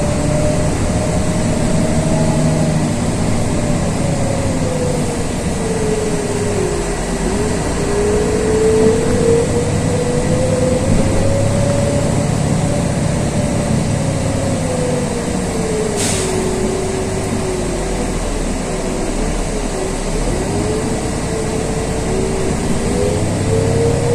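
LiAZ 6213.22 articulated city bus running, heard inside the cabin: a steady low rumble with a whine that rises and falls several times as the bus speeds up and slows down. A single sharp click comes about two-thirds of the way through.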